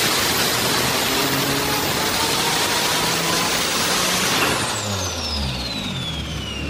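Turbocharged Nissan 370Z's 3.7-litre V6 running hard at full throttle on a chassis dyno with a high turbo whine. About four and a half seconds in it comes off throttle: the revs fall and the whine slides steadily down in pitch.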